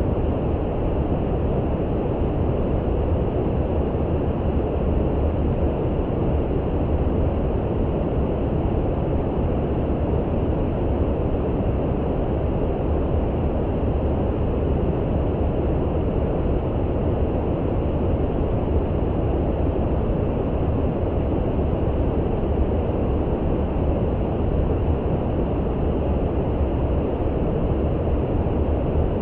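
Steady brown noise: an even, deep rushing hiss that is strongest in the low end, with no changes and no separate sounds.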